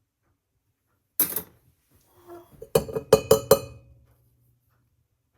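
Dishware clinking while a latte is being prepared: one knock about a second in, then a quick run of about five ringing clinks.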